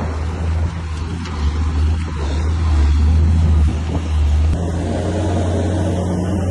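Bulldozer's heavy diesel engine running steadily with a low drone, a little louder in the middle and shifting in note near the end.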